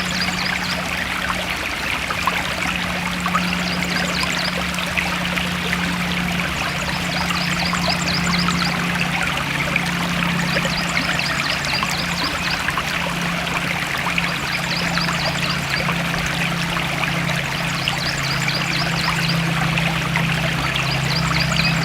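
A forest stream flowing and trickling steadily. A short high trill repeats about every three and a half seconds over it.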